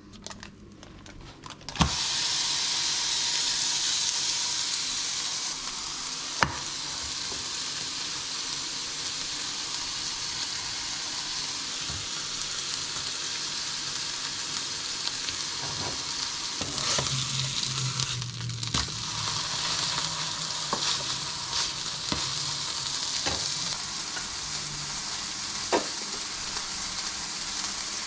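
Beef burger patty and bun half frying in hot oiled pans: a sizzle starts suddenly about two seconds in as food goes into the hot pan, then continues steadily, with a few light knocks of pan and utensils.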